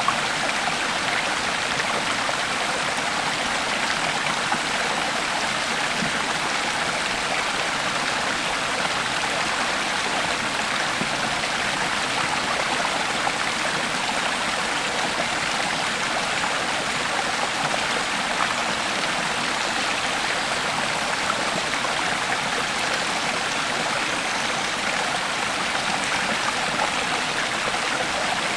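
Creek water flowing steadily over rocks: an even, continuous rush and babble.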